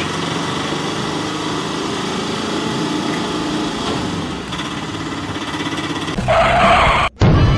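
Small vehicle engine running steadily, an engine sound effect for a toy auto rickshaw. Near the end a louder burst with a wavering tone cuts off suddenly and is followed by a heavy low thump.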